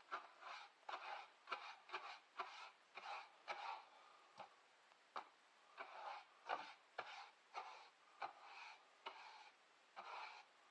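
Faint, irregular rubbing and scraping strokes, about two or three a second, as something is worked over by hand on a workbench.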